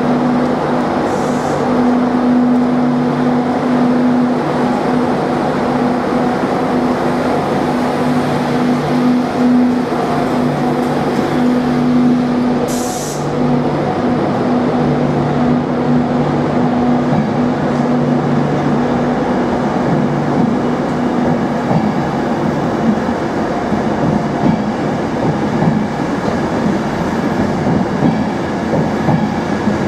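Class 91 electric locomotive and its Mark 4 coaches of an InterCity 225 train rolling along the platform. A steady electrical hum dies away about twenty seconds in, under continuous wheel and rail rumble, with a brief hiss about thirteen seconds in.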